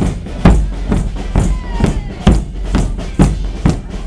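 Massed Portuguese bombos (large bass drums) with snare drums, beating a steady, loud march rhythm of about two strokes a second.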